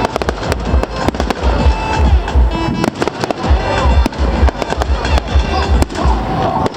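Fireworks display going off in quick succession: dense crackling and popping over repeated deep booms, with music playing underneath.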